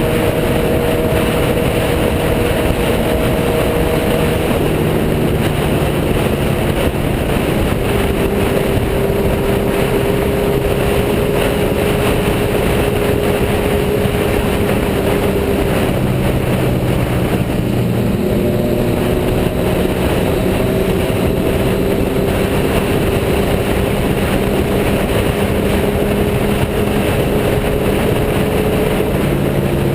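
Sport bike engine running at road speed under a constant rush of noise, typical of riding on the bike. The engine note steps down about four seconds in and shifts again around eighteen seconds in.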